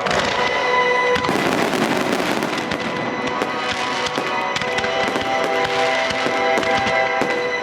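Fireworks going off in a dense run of sharp pops and crackles, thickest about a second in, over music playing throughout.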